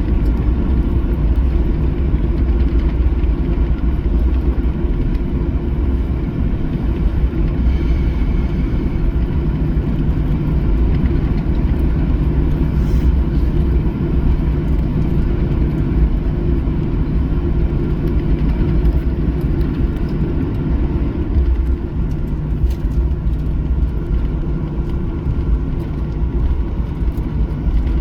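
Steady cabin noise inside a Boeing 737-800: a loud, even low rumble of the engines and airflow, with a faint steady hum running through it.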